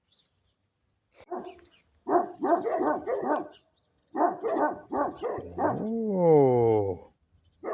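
An animal calling: two quick runs of short yelping calls, then one long wailing call that rises briefly and falls in pitch near the end.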